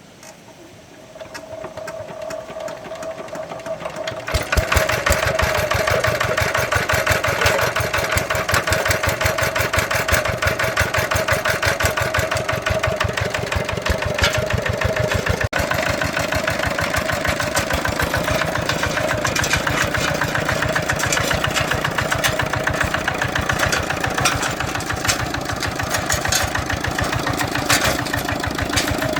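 Tractor engine starting about a second in and coming up to a steady run by about four seconds in, with a fast, even firing beat.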